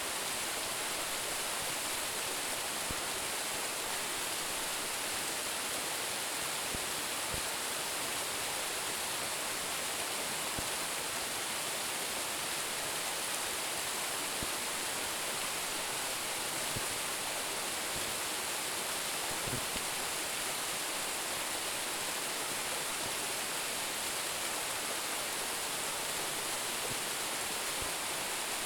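Steady rush of a small waterfall of about 10 m, water falling and splashing onto rock and pool, an even hiss without change.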